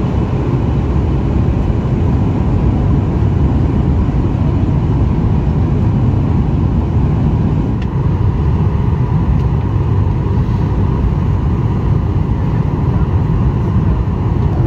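Steady cabin drone of a Boeing 737 airliner in flight: a low engine and airflow rumble that holds an even level throughout.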